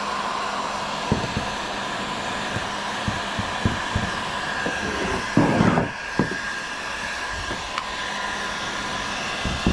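Heat gun blowing steadily with a thin whine, heating HDPE plastic for a hull patch. Occasional short knocks from handling the work, and a louder rustling clatter about halfway through.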